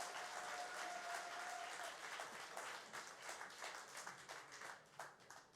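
Audience applause dying away at the close of a concert, the clapping thinning out and fading near the end. A long held note sounds over it for about the first two seconds.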